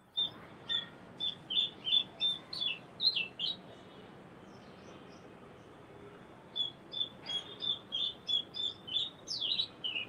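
A small bird chirping: a run of short, high chirps, about four a second, lasting a few seconds. After a pause of about three seconds a second run follows, ending in a few quicker falling notes.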